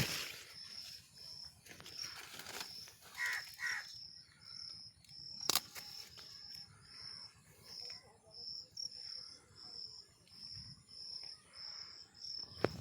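Insects chirping steadily in an even high-pitched rhythm, about two chirps a second, with two short bird calls a little past three seconds in and a sharp click near the middle.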